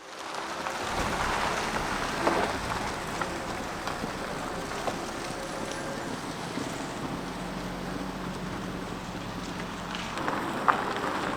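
Blizzard wind blowing hard, a steady rushing noise with a few sharp ticks near the end.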